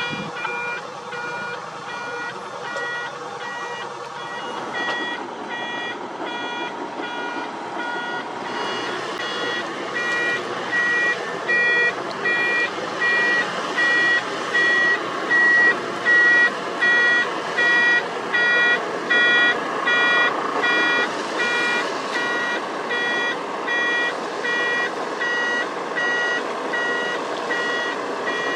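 Reversing alarm on heavy paving equipment beeping evenly, about one and a half beeps a second, growing louder about a third of the way in, over the steady running of diesel engines.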